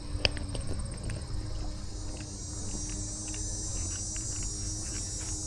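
Crickets trilling steadily in a high, even chorus, with scattered soft ticks and one sharp click a quarter second in.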